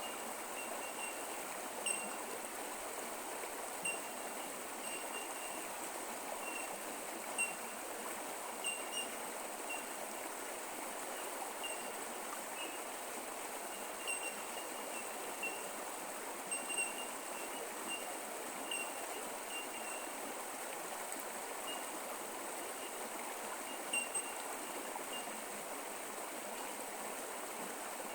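Bush creek running, a steady rush of flowing water. Short high chirps come every second or two over it.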